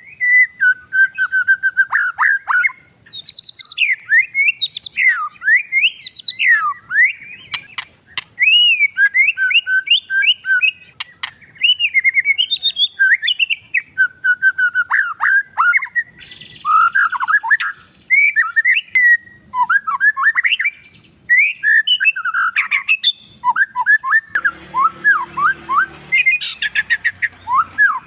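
Oriental magpie-robin (kacer) in full, non-stop song: a rapid, varied stream of whistled and chattering phrases, rising and falling. A short burst of rustling noise sounds near the end.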